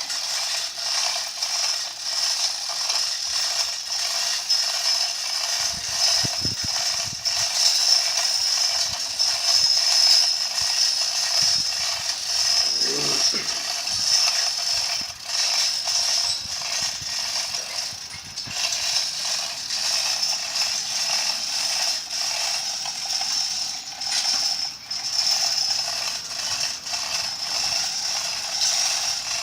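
Continuous rapid mechanical ratchet clicking, a dense steady run of fine clicks with no pauses.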